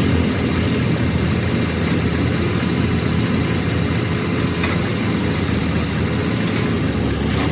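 An engine running steadily with a low, even rumble, and a few faint clicks over it.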